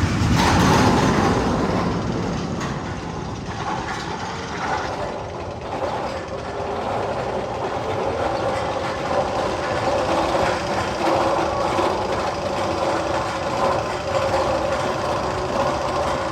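Magnum XL 200 roller coaster train rolling along its track, a steady rumbling run with a held, humming tone coming in about halfway through.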